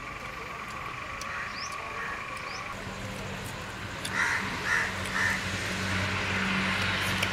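Outdoor ambience: faint short bird chirps, then three harsh calls in quick succession about four seconds in, with a low steady hum coming in shortly before them.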